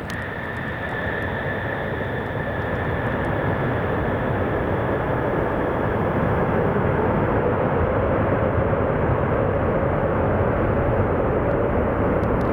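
Boeing 747 jet engines on a landing approach, a steady rushing noise with a high fan whine that grows steadily louder as the jet comes closer.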